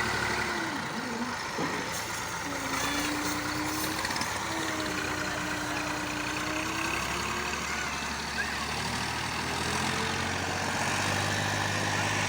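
Massey Ferguson 240 tractor's three-cylinder diesel engine running steadily, with a wavering higher tone over it for a few seconds in the middle.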